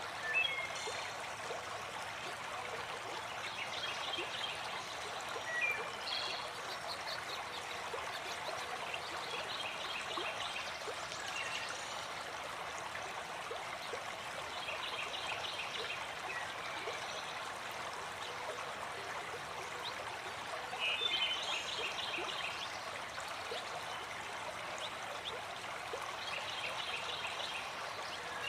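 Running water of a forest waterfall, a steady rush, with a bird repeating a short high trilled call about every five or six seconds.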